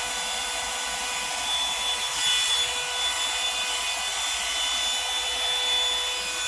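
Revlon One-Step Volumizing hot-air brush dryer running steadily on its cool setting: a constant rush of air over a steady motor whine.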